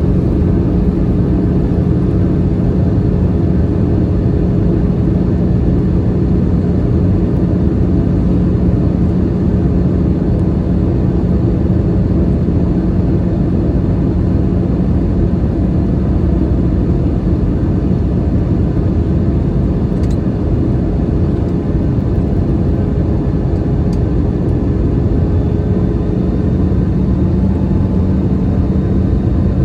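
Steady cabin noise of an Airbus A321-211 airliner in flight: a constant rush of airflow with a low, even engine hum holding two steady tones. The lower hum tone shifts slightly near the end.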